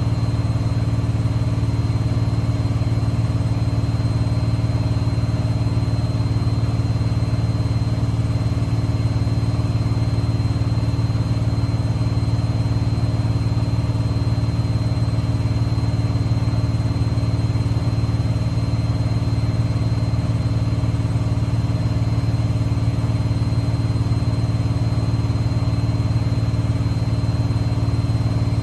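Privileg washing machine in its spin cycle, the drum turning at a steady speed: a constant low hum with a thin high whine over it.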